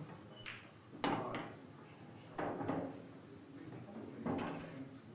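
Pool balls knocking on an 8-ball table: a few sharp clacks, about a second in, near halfway and again near the end, each with a short ring after it.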